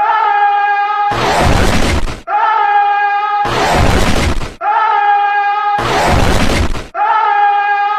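Looped cartoon sound effect: a held, steady electronic-sounding tone for about a second, then a crash-like burst of noise of about the same length, the pair repeating about every two and a quarter seconds, three full times with a fourth tone leading into a burst at the end.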